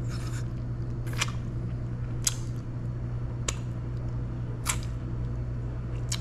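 Person chewing a mouthful of curried fish: about five short, sharp wet mouth smacks, roughly one a second, over a steady low hum.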